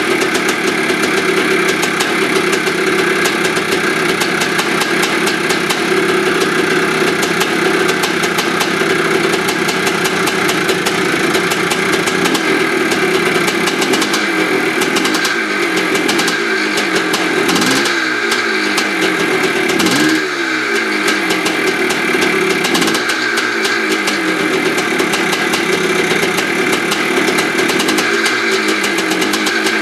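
1982 Maico 490 air-cooled two-stroke single running fast and steady, with the throttle blipped a few times around the middle.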